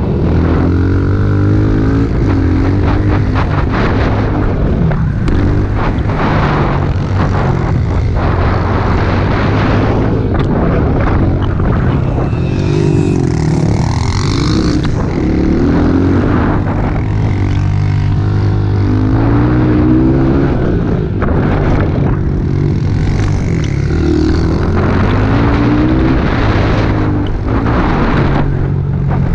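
Pit bike's small single-cylinder four-stroke engine running hard while ridden, its note rising and falling over and over as it revs up and backs off.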